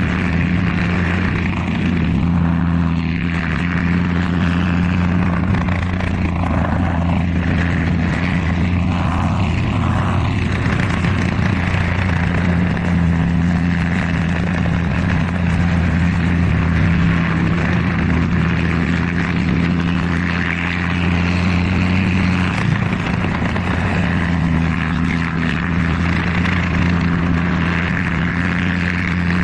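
Propeller aircraft engine running steadily: a loud, constant low drone that holds the same pitch throughout.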